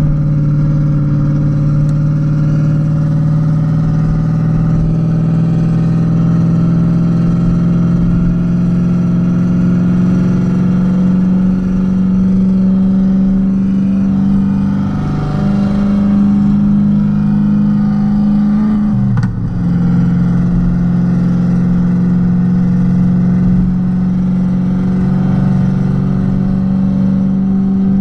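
Modified Renault Kwid 0.8's three-cylinder petrol engine running under way, its note climbing slowly and steadily with the revs. About nineteen seconds in, the revs drop sharply for a moment and then pick back up.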